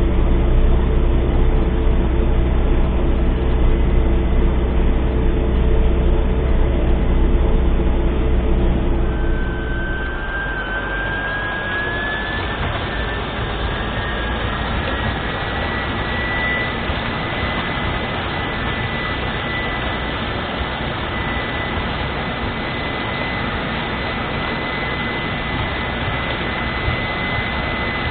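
MTZ-892 tractor's four-cylinder diesel running steadily at work. About ten seconds in, the deep engine note fades into a steady whir with a high whine that rises briefly and then holds.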